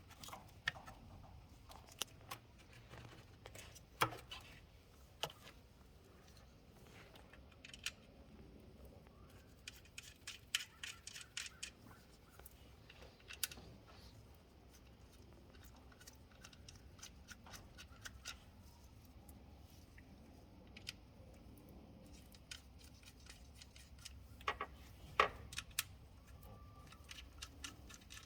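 Scattered light clicks and taps at irregular intervals, a few sharper than the rest, over a faint low hum.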